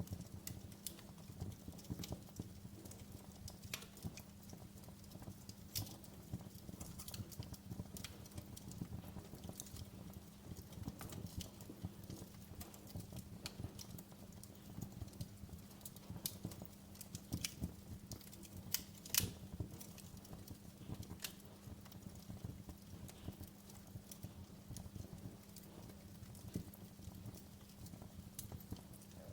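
Wood fire in a fireplace crackling, with irregular sharp pops of varying loudness and one louder pop about two-thirds of the way through, over a low steady hum.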